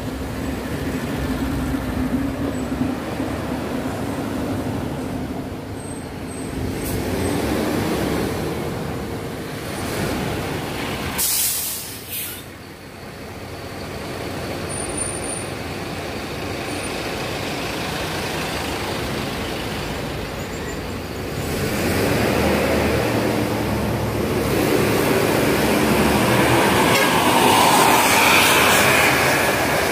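Steady noise of a large vehicle, with two short loud hisses a little after eleven seconds in; the noise grows louder over the last third.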